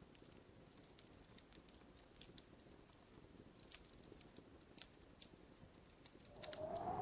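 Faint, sparse crackling and popping of wood burning in a fireplace. Near the end a louder, brief rising whistle-like tone is heard.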